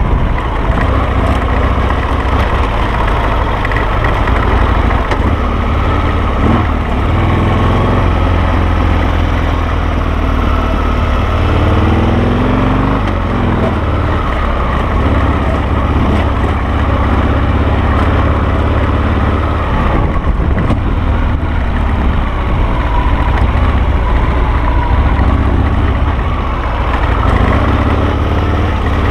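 Harley-Davidson Sportster V-twin engine of a dual-sport motorcycle running under way on a trail, its engine speed rising and falling about midway.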